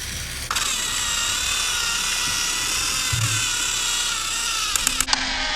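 Battery-powered Thomas & Friends TrackMaster toy train motors whining steadily as the engines drive along the track. The whine starts about half a second in and changes just before the end.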